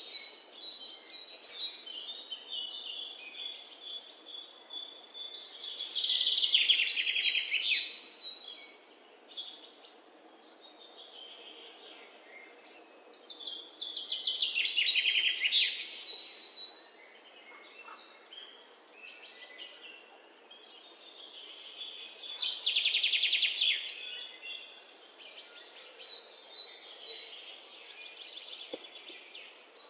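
Birdsong: a loud, rapid trilled phrase sung three times, about every eight seconds, with a thin run of high chirping notes between.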